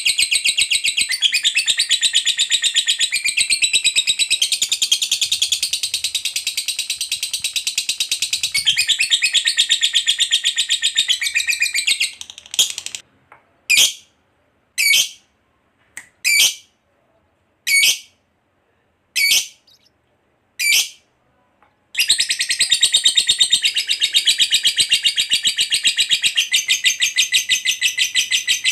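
Lovebird giving its long 'ngekek' song, a fast, shrill, unbroken chattering trill. About halfway through, the trill breaks off into about seven short single calls with silences between, then the long chatter resumes.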